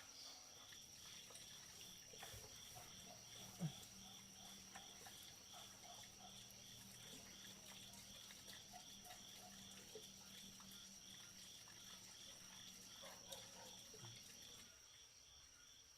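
Faint insect chorus: a steady high trill with a pulsing chirp of about three beats a second below it. A low hum runs under it and stops near the end, and one short, louder sound comes about three and a half seconds in.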